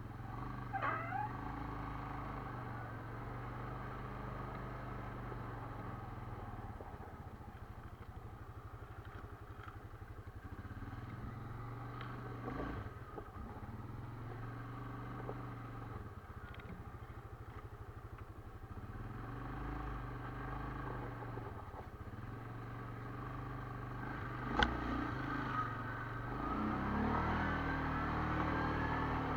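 Quad bike engine running steadily at low speed, revving up briefly near the start and again over the last few seconds. A single sharp knock about 25 seconds in.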